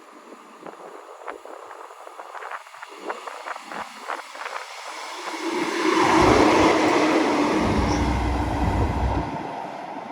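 A train passing through the station: its wheels click over the rail joints as it approaches, then the rumble and rush of the train going by close at speed, loudest about six seconds in, before it eases off.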